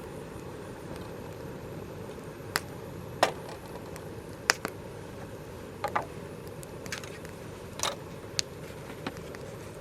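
Scrap-wood campfire crackling, with irregular sharp pops over a steady low rush.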